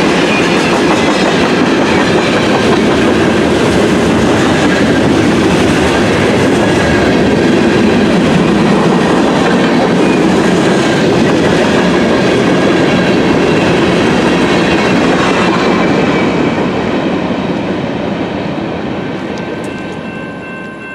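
Railroad cars of a passing train rolling by, a steady noise of wheels on rails that fades away over the last few seconds.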